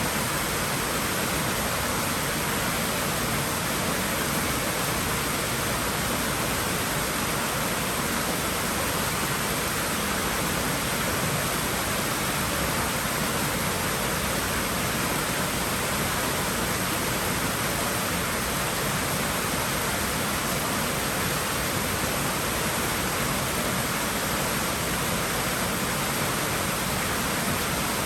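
Pool water running in a steady, even rush, with no breaks or single splashes.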